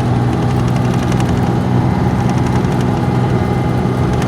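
A car driving at highway speed, heard from inside the cabin: a steady low engine hum with road and tyre noise.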